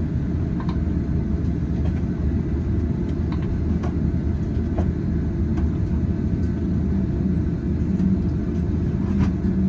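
Steady low cabin rumble of an Airbus A330-900neo airliner taxiing after landing, with a low hum that grows stronger near the end and a few faint ticks.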